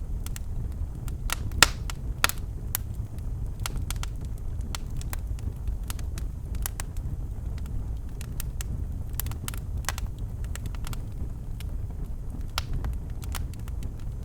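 Birchwood fire burning in a fireplace: irregular sharp crackles and pops over a steady low rumble of the flames, with two louder pops about one and a half and two seconds in.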